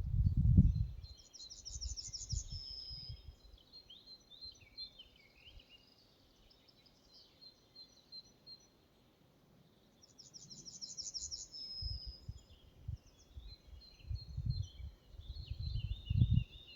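Woodland songbirds singing. One bird repeats a short phrase twice, about nine seconds apart: a rapid high trill followed by a lower note. Low wind gusts rumble on the microphone at the start and again near the end.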